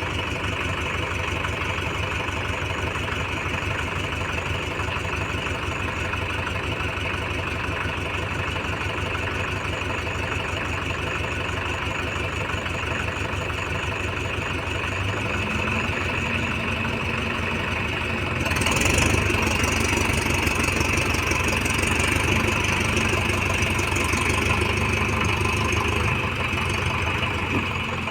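Heavy diesel engine running steadily, then growing louder from about two-thirds of the way in as it revs up and works harder.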